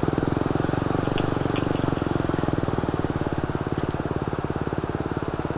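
Dirt bike engine running at low revs with a steady, even beat, not revved.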